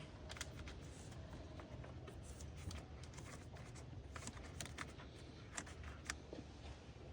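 Faint handling noise from hands working in an engine bay: scattered light clicks and taps, a dozen or so at uneven intervals, as hoses and plastic connectors are worked loose, over a low steady hum.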